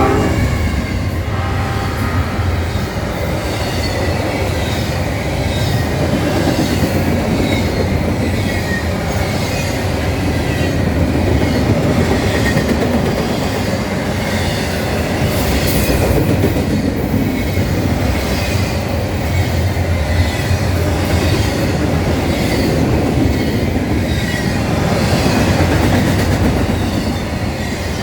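Norfolk Southern train rolling past, a steady loud rumble with wheels clicking over the rail joints.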